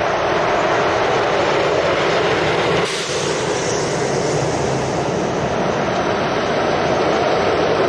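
Steady heavy road-traffic noise of lorries on the move, with a brief break about three seconds in.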